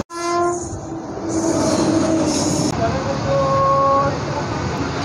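A train horn sounds briefly just after the start, then the steady rumble and clatter of a moving train heard from an open coach doorway.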